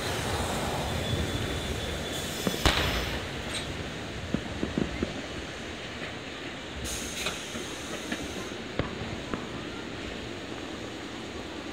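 Meitetsu electric train pulling out of the station, its running noise easing off over the first few seconds. Fireworks bang at a distance throughout, the loudest crack about two and a half seconds in, followed by scattered smaller pops.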